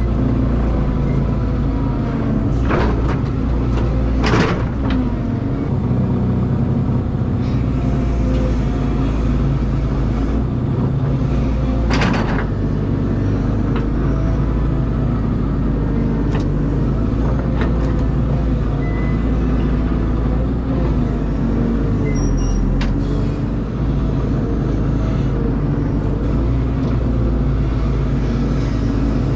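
Caterpillar excavator's diesel engine running steadily under working load, with a few sharp knocks and clanks from the machine as it digs, the strongest about twelve seconds in.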